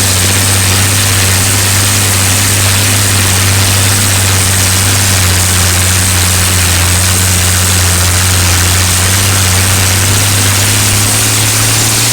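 Ford 6000 Commander tractor's six-cylinder engine running steadily, its speed rising slightly near the end.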